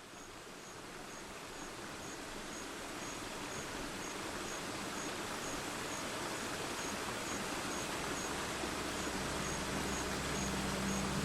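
Rainforest ambience fading in: a steady rushing hiss with a faint high chirp repeating about twice a second. Low music tones come in over the last few seconds.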